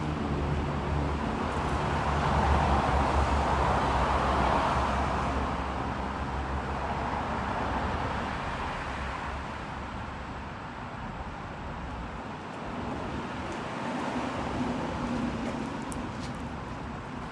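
Road traffic passing, a car's engine hum and tyre noise swelling in the first few seconds and then fading away, with a smaller second swell near the end.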